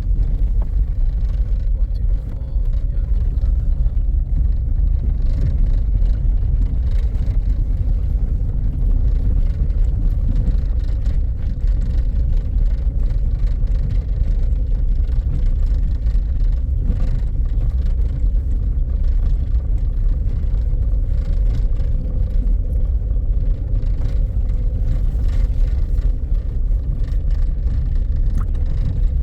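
A motor vehicle driving, with a steady low rumble of engine and road noise and a faint steady hum above it.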